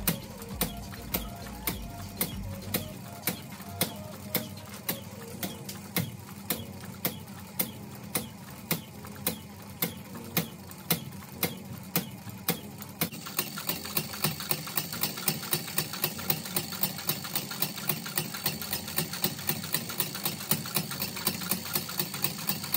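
Homemade single-cylinder four-stroke petrol engine running slowly, with a sharp regular beat of about two a second. A little over halfway the beats come roughly twice as fast.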